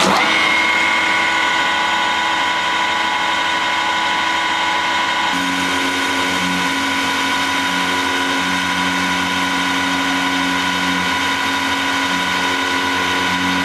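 Harrison T280 lathe starting up abruptly and running steadily with a high, multi-toned whine. From about five seconds in, a lower hum starts and stops several times over the steady whine.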